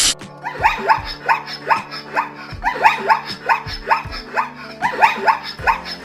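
A dog barking rapidly and repeatedly, short high barks about three or four a second, in runs with a brief pause near the middle.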